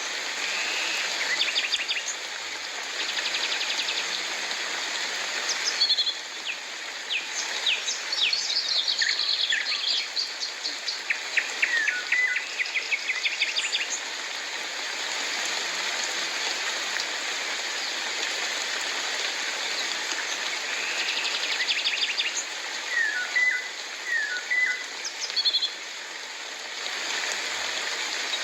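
Birds calling over a steady hiss of falling rain. Bursts of rapid trills and short chirping calls come through the first half and again about three-quarters of the way through, with a lull between.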